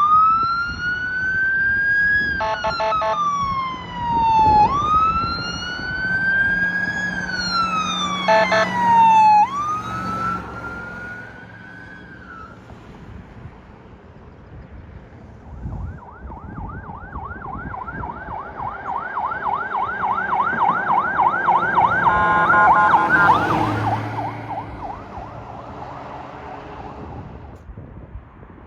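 Fire apparatus siren sounding a slow wail that rises and falls about every four and a half seconds, broken twice by short horn blasts. After a lull, a fast yelp grows louder with another horn blast near its peak, then fades as the vehicle passes.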